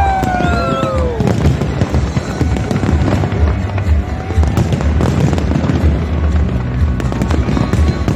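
Fireworks display: dense crackling and banging of aerial fireworks over loud show music with a steady bass, and a few gliding whistle-like tones in the first second.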